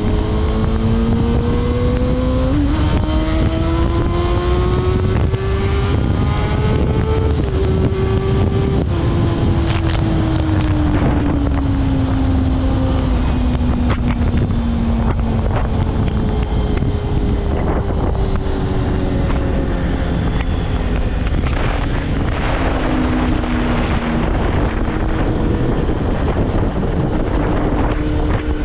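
Honda CBR250RR MC22's inline-four engine under way. The revs climb, break at a gear change about two and a half seconds in, climb again, then fall away as the bike slows, and rise once more later on. Heavy wind noise on the helmet-camera microphone throughout.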